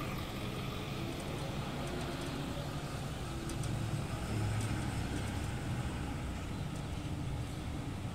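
Car engine idling steadily, heard from inside the car.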